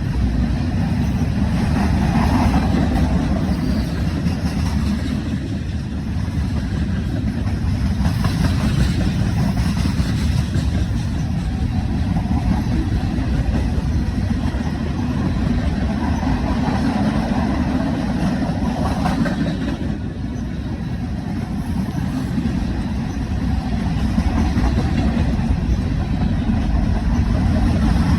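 A train passing with a steady low rumble.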